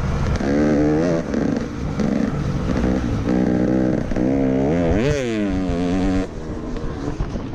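Motocross bike engine under hard riding, its pitch repeatedly climbing and dropping with throttle and gear changes. About five seconds in it revs sharply up and back down, then falls to a lower, quieter note as the throttle closes.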